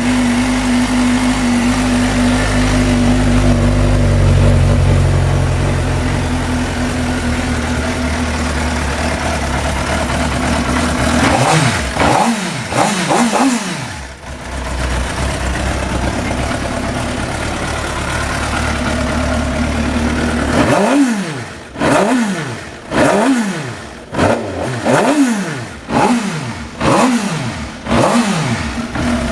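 The inline four-cylinder engine of a 2004 Suzuki GSX-R600, a used engine with 38,500 km on it, runs on a test: idling steadily, blipped a few times in quick succession about twelve seconds in, idling again, then revved in a string of sharp blips about once a second through the last third.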